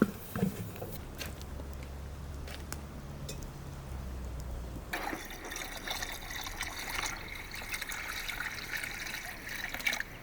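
Liquid pouring into a container, starting about five seconds in and running steadily.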